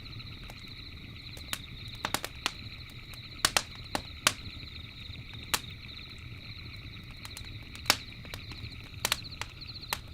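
Campfire crackling, with about a dozen sharp, irregular pops of burning wood over a steady low rumble. Behind it, a continuous high chirping of night insects.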